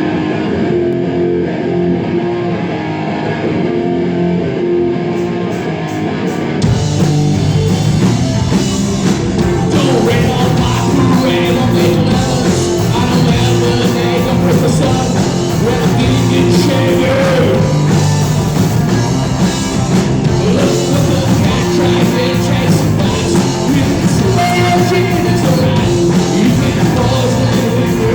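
Rock band playing live: a guitar opens alone, then the drums and bass come in about six and a half seconds in and the full band plays on.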